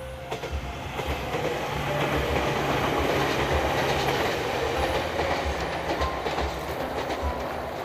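Meitetsu electric train passing at speed, its wheels clattering over the rail joints; the sound swells over the first couple of seconds, holds, then eases toward the end.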